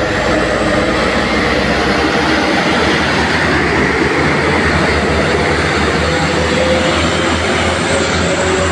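Heavy truck running through a bend: steady diesel engine hum and road noise, loud throughout, with the low engine note firming up about two seconds in.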